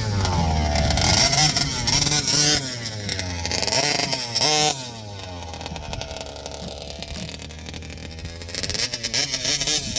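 Two-stroke Taylor race engine in a large-scale petrol RC monster truck, revving up and falling back in short bursts as the truck drives past. It settles to a lower, steady drone midway and revs again near the end. The engine is being run in gently.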